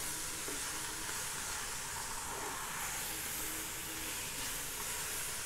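Chopped cabbage and zucchini sizzling steadily in hot olive oil in a frying pan while being stirred with a spatula.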